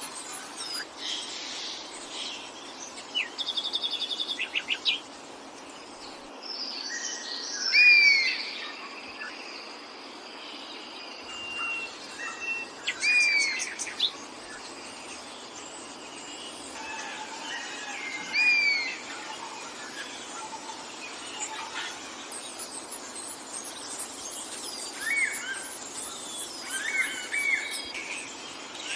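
Several wild birds calling and singing, short whistled and chirping notes coming every few seconds over a steady background hiss. About three seconds in one bird gives a quick run of repeated notes, and the loudest call comes about eight seconds in.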